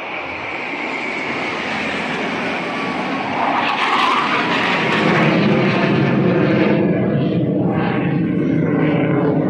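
A fixed-wing aircraft flying past low with a loud engine roar. The roar swells over the first few seconds and then holds loud, with a deep rumble underneath in the second half.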